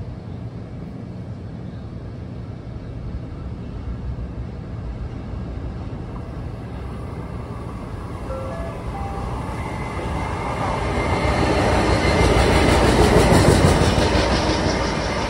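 Long Island Rail Road train approaching and passing close by, growing steadily louder to a peak about thirteen seconds in, then easing off. A faint rising whine comes in partway through, and the wheels click over rail joints at the loudest point.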